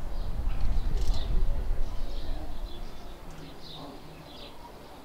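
Small birds chirping in short calls, mostly in the second half, over a low rumble that fades after about two and a half seconds.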